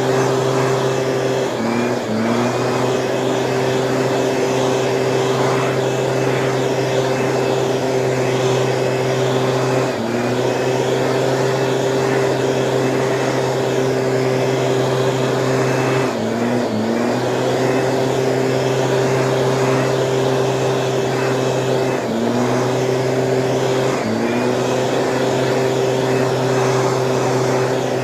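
A small Stihl petrol engine on a motorized weed sprayer, running steadily at high speed. About every six seconds the throttle eases off for a moment, and the pitch dips and then climbs back up.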